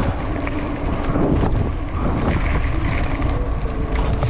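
Wind rumbling steadily on the microphone while riding a bicycle.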